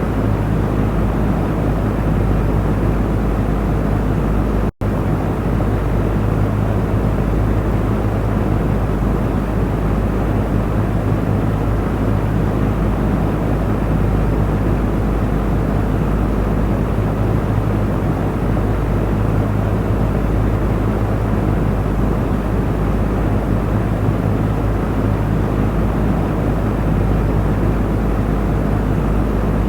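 Electric fan running steadily: an even rush of air over a low motor hum. A split-second dropout comes about five seconds in.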